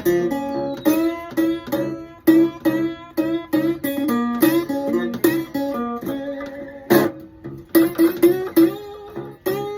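Solo blues guitar playing a picked riff of single notes and short chords, with a few notes bent upward near the end.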